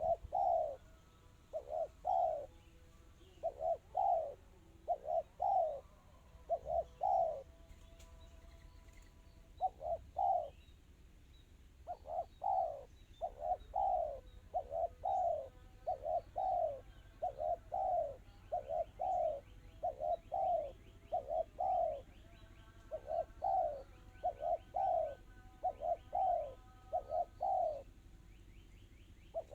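Spotted dove (tekukur) cooing in long runs of quick, closely spaced coo notes, the fast, tight 'kristal' song style prized by dove keepers, with a short break about eight seconds in. Faint chirps from a small bird sound higher up behind it.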